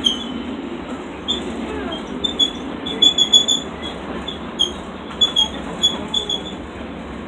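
Disneyland Railroad train rolling along the track: a steady low rumble with short high-pitched wheel squeaks coming irregularly, thickest about three seconds in.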